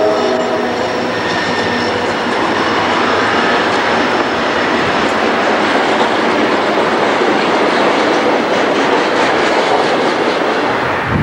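Train rolling past on steel rails: a steady, loud rumble with wheel clatter, and faint high wheel squeal in the first few seconds.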